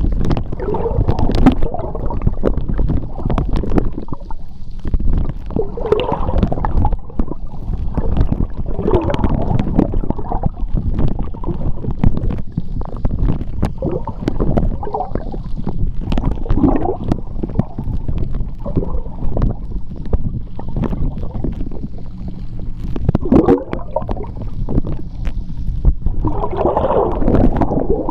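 Sea water heard from underwater: a continuous low rumble with gurgling bubble swells every few seconds and scattered small clicks.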